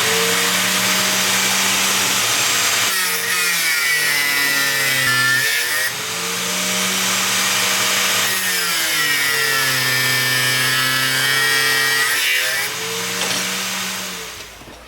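Angle grinder running and cutting. Its motor pitch sags twice as the disc bites into the work and recovers in between, and it winds down near the end.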